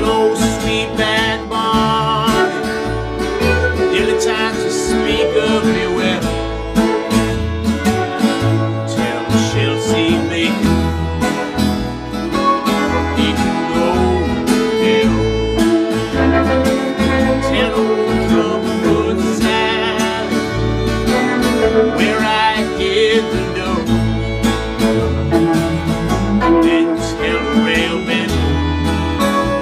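Small Americana/blues band playing a song: acoustic and electric guitars, fiddle and bass, with the bass marking a steady rhythm underneath.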